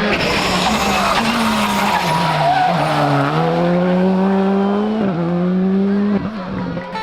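Rally car engine revving hard with its tyres skidding and squealing. The revs dip about two and a half seconds in and climb again, with sharp breaks in pitch near the end that fit gear changes.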